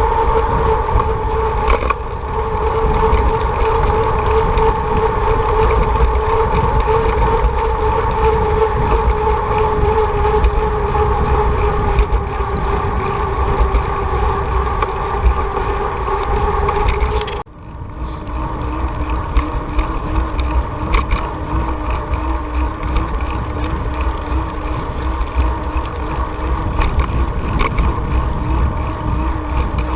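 Wind rumble on the microphone of a moving bicycle ride, with a steady humming drone that sinks slowly in pitch. A little over halfway it breaks off abruptly and comes back as a lower hum.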